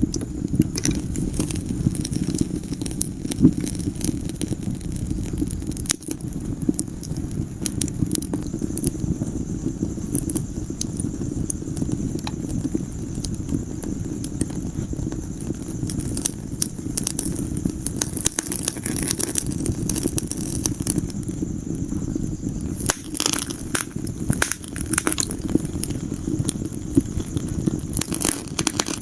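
Wood fire crackling in a fireplace: a steady low rumble of flames with frequent sharp pops and crackles, coming thicker for a few seconds late on.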